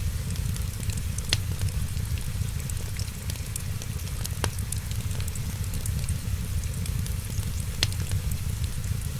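Wood fire crackling, with three sharper pops over a steady low rumble.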